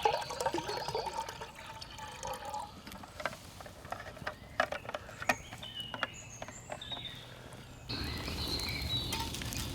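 Trickling water with scattered sharp clicks and knocks and a few short bird chirps; about eight seconds in it changes abruptly to a louder steady rush with more birdsong.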